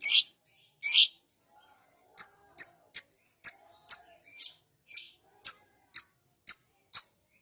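Songbird calling: two scratchy, high notes in the first second, then a steady run of short, sharp, high chirps at about two a second.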